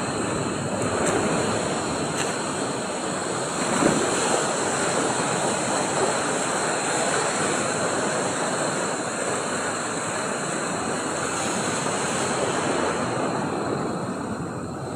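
Sea surf washing and breaking steadily, with wind on the microphone.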